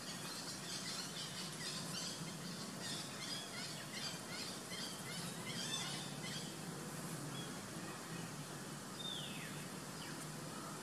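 Birds chirping in a quick series of short, high calls for the first six seconds or so, over a steady low hum, with one falling call about nine seconds in.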